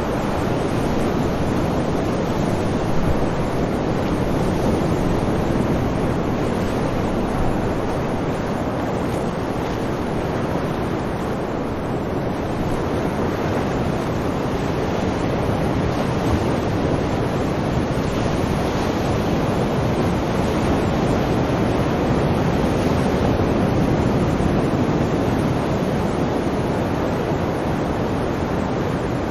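Sea waves breaking and washing on a shore: a steady wash of surf that swells and eases gently, with no single breaker standing out.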